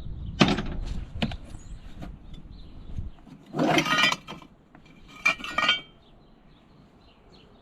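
Loose metal tractor parts clinking and clanking as they are rummaged through in a box, with sharp knocks in the first second or so and two louder clattering bursts around the middle.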